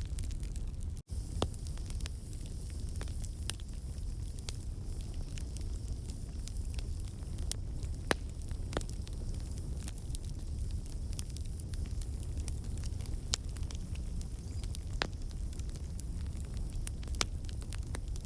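Wood campfire burning: a steady low rumble of flame with scattered sharp pops and crackles from the burning logs. There is a momentary gap in the sound about a second in.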